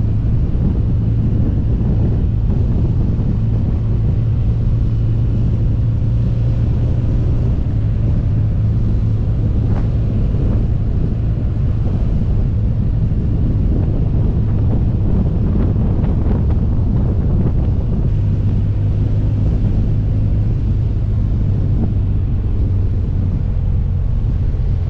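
A 2011 BMW R1200GS Adventure's air/oil-cooled boxer twin running at a steady road pace, with wind buffeting the microphone. The engine note shifts a little twice.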